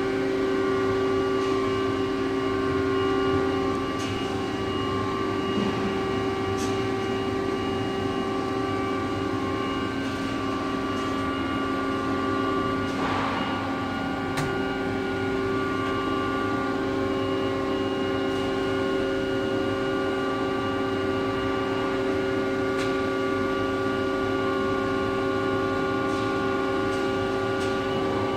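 Gildemeister MD6S CNC lathe running, a steady machine whine made of several constant tones, with a few light clicks and a short swell of noise about halfway through.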